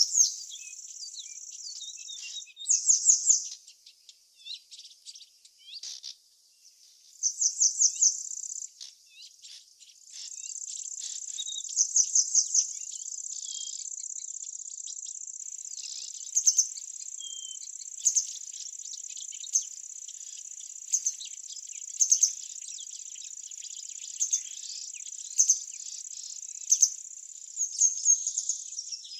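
Outdoor summer ambience: a steady high-pitched insect trill, like a cricket's, that breaks off about two and a half seconds in and resumes about ten seconds in, with birds chirping over it and loud short chirps repeating about every second and a half in the second half.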